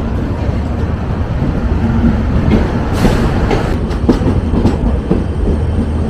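Indian Railways passenger train (the Brahmaputra Mail) running on the track: a steady, loud rumble of wheels on rails with scattered knocks and clatter.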